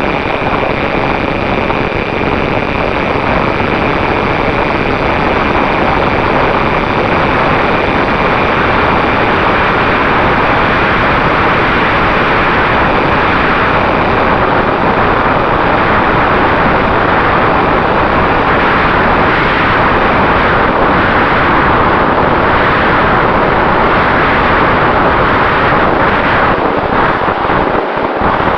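Steady rush of wind noise over the microphone, with a faint steady whine from the Mini Talon model plane's electric motor and propeller under it.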